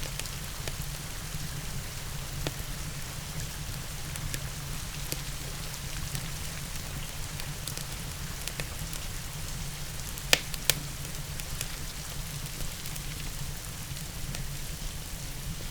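Steady rain mixed with a crackling fireplace: scattered small pops and ticks over the even hiss of the rain, with two louder sharp pops close together about ten seconds in.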